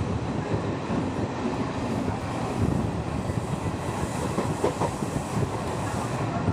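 Express passenger train running on the line: a steady rumble and clatter of the coaches' wheels on the track.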